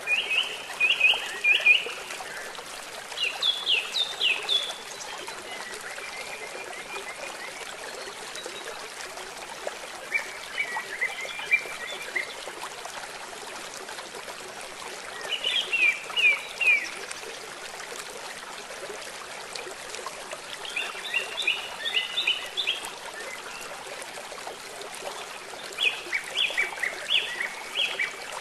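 A bird singing short phrases of rapid chirps, about six phrases spaced roughly five seconds apart, over a steady rush of running water.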